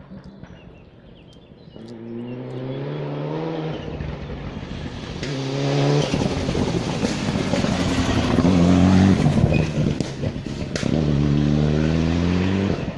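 Rally car engine at full throttle approaching and passing, its pitch climbing in several runs broken by quick gear changes, loudest about halfway through, with a few sharp cracks around the same time.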